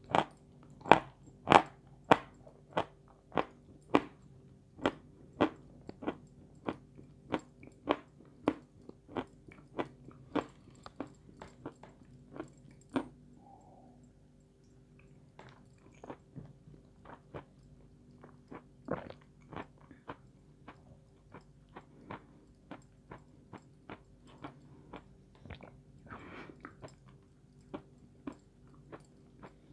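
Close-up chewing and biting of a crunchy white dessert: a steady run of sharp crunches, about one and a half a second. They pause briefly about halfway through, then carry on softer.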